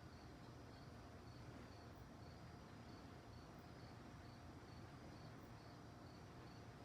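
Faint crickets chirping steadily, about three short high chirps a second, over a low steady rumble.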